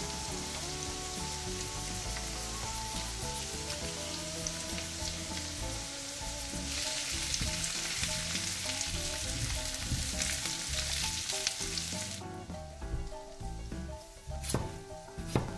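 Zucchini and onion frying in oil in a pan, sizzling steadily, the sizzle growing louder a little before halfway as the vegetables are stirred with a silicone spatula. The sizzle stops about three seconds before the end, followed by two sharp knife strokes on a wooden cutting board.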